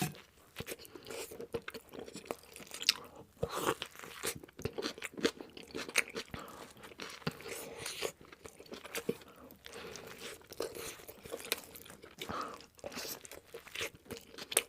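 Close-miked eating: a person biting and chewing crunchy fast food, with a dense, irregular run of sharp crunches and crackles.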